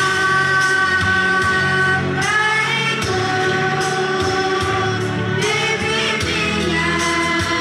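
Sixth-grade children's choir singing long held notes, moving to new notes about two seconds in and again a little past halfway.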